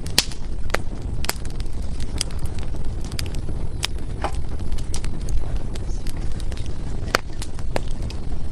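Firewood burning in a fireplace, crackling and popping at irregular moments over a low steady rumble. The sharpest pops come just after the start and about seven seconds in.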